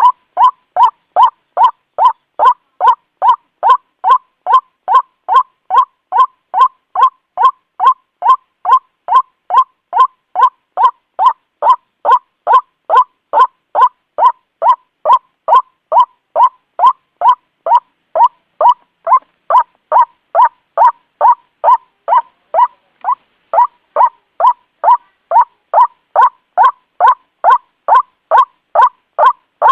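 White-breasted waterhen calling over and over, a loud, short 'ruak' note about twice a second in an unbroken, even rhythm. It is the bird's territorial and courtship call, used here as a lure to draw waterhens in.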